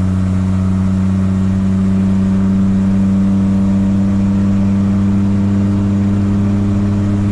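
1981 Chevy C10's 250 inline-six engine running at full throttle, its note held steady at a constant pitch.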